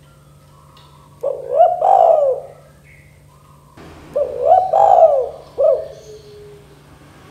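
Spotted dove (tekukur) cooing: two phrases of several rising-and-falling coos, one about a second in and another about four seconds in.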